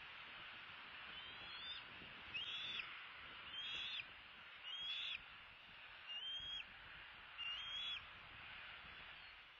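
A bird calling six times, a little over a second apart. Each call is a clear whistle that slides up and then holds its pitch briefly, over a steady background hiss.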